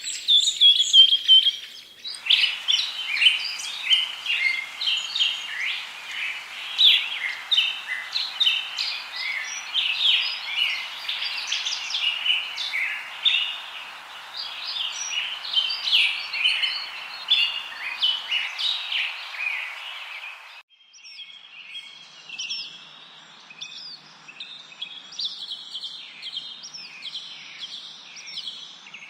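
Songbirds chirping and singing densely, many short trills and chirps overlapping. The recording changes abruptly about two seconds in and again about twenty seconds in, where a background hiss drops away and the chirps become sparser and higher.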